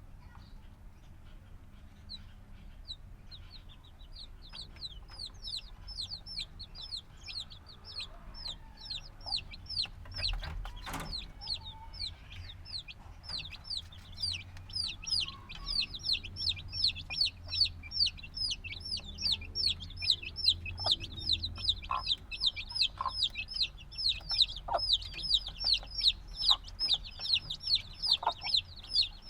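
Chicks a few days old peeping: many short, high, falling chirps, scattered at first, then a rapid, almost continuous chorus from about halfway on. A single sharp knock about a third of the way in.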